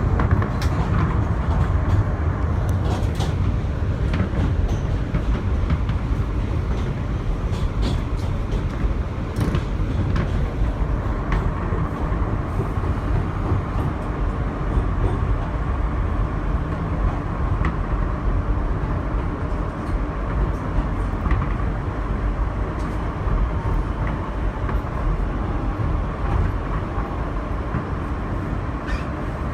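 Interior of an R160B subway car running along the track: a steady rumble of wheels on rail with scattered clicks and rattles.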